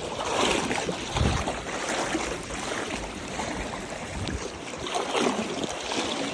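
Floodwater sloshing and splashing in irregular swishing surges, over a steady wash of moving water.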